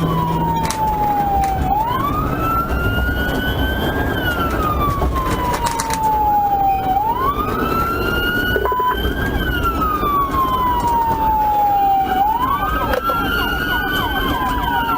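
Police siren on a wail: its pitch climbs for about two seconds, then falls slowly for about three, and this repeats three times. Engine and road noise from the pursuing car run underneath. Near the end a second siren's sweeps overlap the first.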